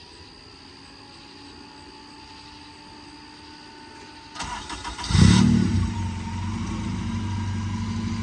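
Freshly swapped-in Honda K-series engine in a Civic being started: the starter cranks briefly about four and a half seconds in, the engine catches with a loud flare, then settles into a steady idle.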